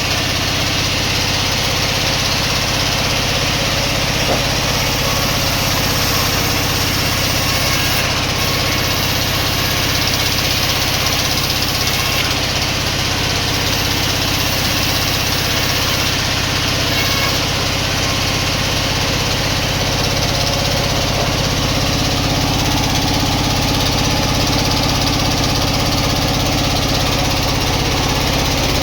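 Sawmill saw machinery running steadily, a continuous motor hum under the noise of the saw, with no breaks or impacts.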